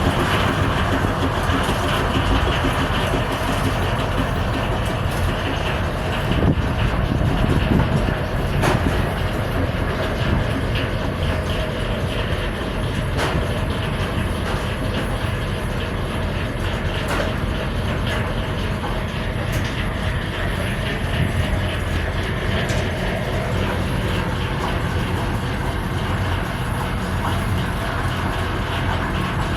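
Sawmill machinery running steadily, a low engine drone with scattered clicks and knocks.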